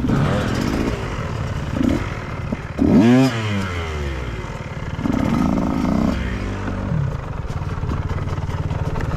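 Dirt bike engine running with several sharp throttle blips, its pitch rising and falling quickly each time; the loudest rev comes about three seconds in.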